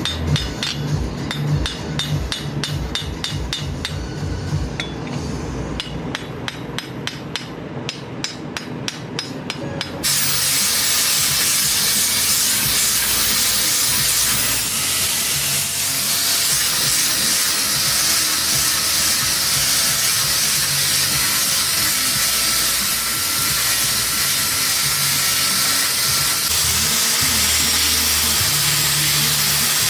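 Steel being forged with rapid, evenly spaced hammer blows, about three or four a second. About ten seconds in, this cuts off abruptly to a loud, steady hiss.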